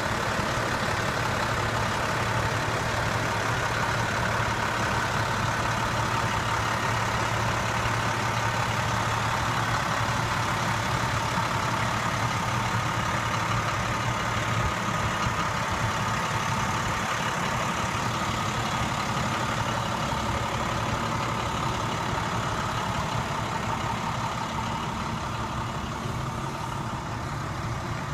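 International DT466 diesel engine of a 2006 International 4300 dump truck running at a steady idle.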